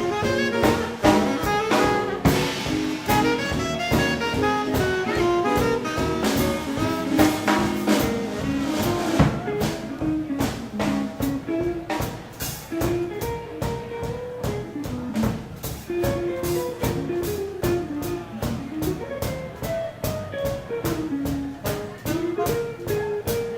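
A live swing band plays an instrumental passage: saxophone and brass carry a moving melody over a steady drum-kit beat.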